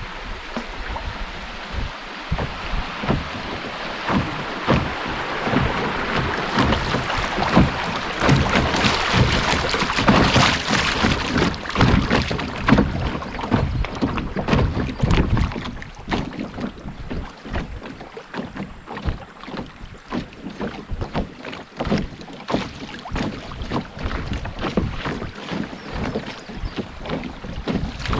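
Water rushing and splashing around a canoe on the move, swelling for several seconds before easing off, with many small knocks and wind buffeting the microphone.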